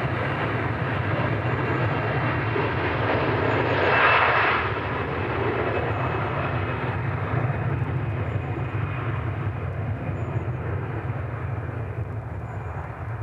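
Jet airliner's engines at takeoff power, a steady engine roar that swells to its loudest about four seconds in, then slowly fades as the aircraft passes and climbs away.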